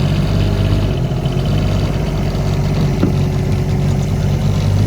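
A motor vehicle's engine running steadily at low revs, with a short sharp tap about three seconds in.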